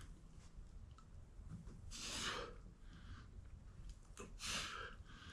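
A person's breathing: two slow breaths about two and a half seconds apart, with a couple of faint clicks just before the second.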